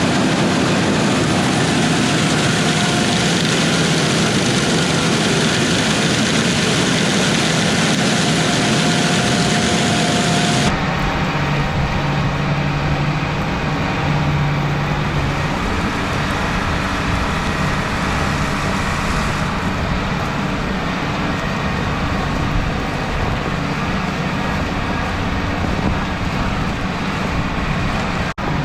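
Combine harvester running at work in a wheat field: a steady engine hum under a broad rushing noise. The sound changes abruptly about ten seconds in, as at a cut to another shot, and stays steady again after.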